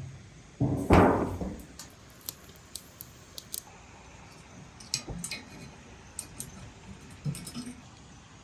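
A heavy thud just under a second in, followed by a scattering of light clicks and clinks.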